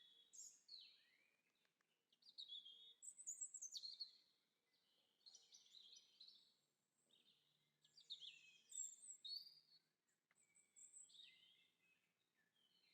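Faint birdsong: several birds chirping and warbling in quick, high-pitched phrases that come in bouts every second or two.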